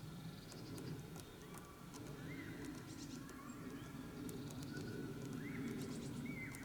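Blue tit pecking at a sunflower seed: quick, irregular sharp taps of its beak on the shell. Several short chirps from small birds come in between, over a low steady background rumble.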